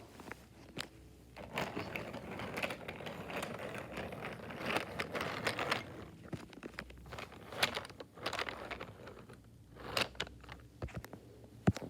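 A toy train rattling as it rolls along its track for a few seconds, followed by scattered clicks and knocks of small plastic toys being handled.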